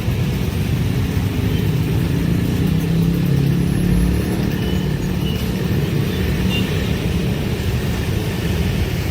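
Train passing close by: a steady low rumble of wheels and carriages.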